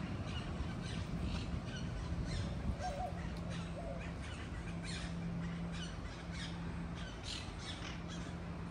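Birds calling outdoors in short, repeated notes, over a low steady hum that sets in about three seconds in and breaks off and resumes several times.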